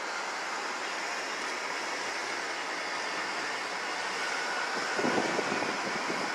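Steady city street noise, a hiss of distant traffic, growing a little louder about five seconds in.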